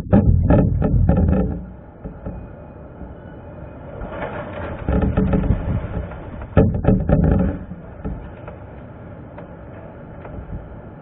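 Strong wind buffeting the microphone in gusts, a rumbling rush with rattling, loudest at the start and in two more gusts midway, with a steady lower rush between.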